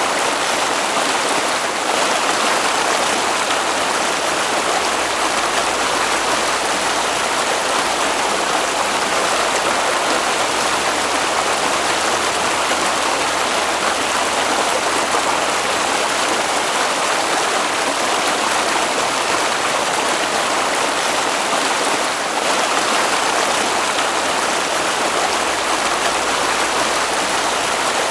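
A stream flowing steadily, an even rush of water with no breaks or changes.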